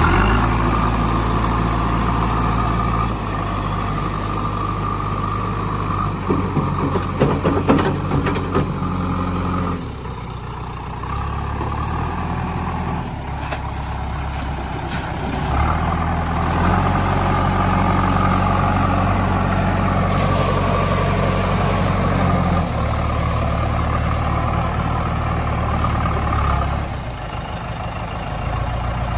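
Heavy diesel engine running, its speed stepping up and down several times, with a short spell of sharp knocks about six to eight seconds in.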